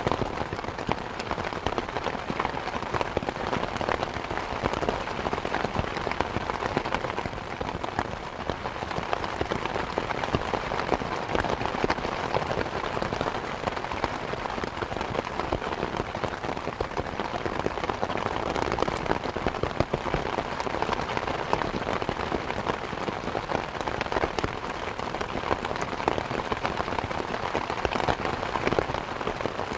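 Steady rain falling, a dense patter of many drops striking surfaces, even in level throughout.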